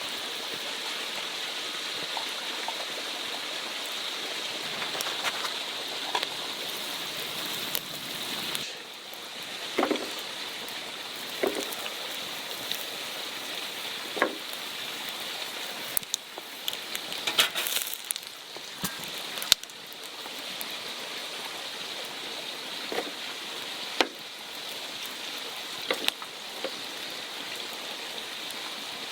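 Food sizzling steadily in a pan over a campfire, with scattered sharp clicks and knocks.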